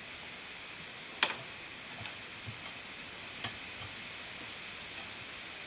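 Scattered light metal clicks and taps from a valve spring compressor at work on a Subaru EJ20 cylinder head while the valves are taken out. One sharper click comes about a second in, then a few fainter ones, over a steady faint hiss.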